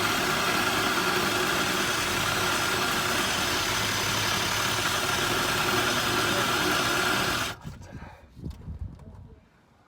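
Power tool with a small rust-stripping wheel running steadily against the underside of a car, then switched off about seven and a half seconds in, followed by faint handling knocks.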